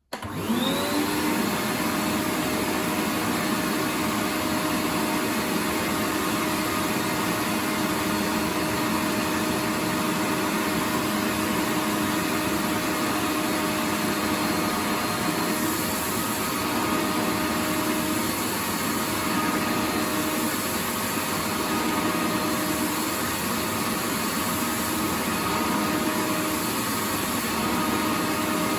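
Vacuum cleaner switching on, its motor whining up to speed within the first second, then running steadily with a constant hum over a broad rushing airflow noise.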